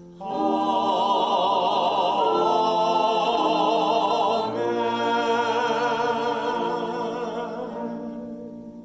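Choir singing long held chords with vibrato, the notes changing twice and then fading away near the end.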